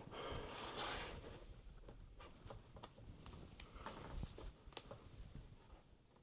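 Pizza-cutter-style iMac opening wheel scraping along the display's edge, slicing the adhesive that holds the glass: a faint scrape in about the first second, then scattered light clicks and taps.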